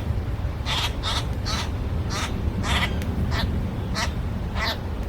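Birds giving short, harsh calls over and over, about two a second, over a steady low rumble.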